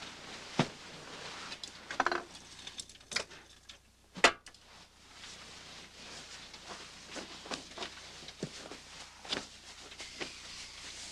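Small handling noises in a quiet room: scattered light clicks and knocks with soft rustling. The sharpest knock comes about four seconds in.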